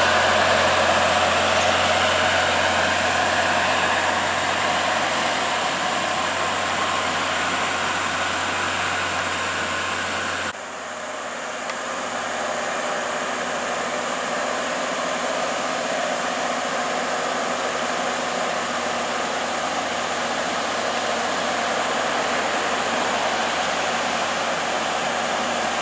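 Heavy truck on the road, a steady engine and tyre noise that changes abruptly about ten seconds in.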